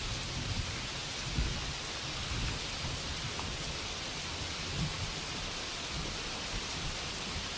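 Steady rainfall, an even hiss of rain with a low rumble underneath.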